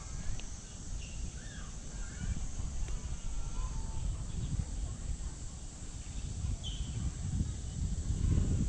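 Outdoor park ambience: a few short, faint bird chirps over a steady high hiss and an uneven low rumble.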